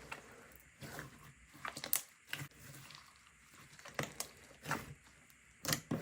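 Slime being squeezed and pressed by hand, giving a handful of irregular short sticky clicks and pops. The loudest come about two seconds in and near the end.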